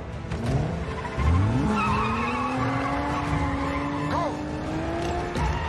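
Car engine revving hard and accelerating, its pitch climbing quickly in the first second and a half, then holding a high, slowly rising note, with tyres squealing.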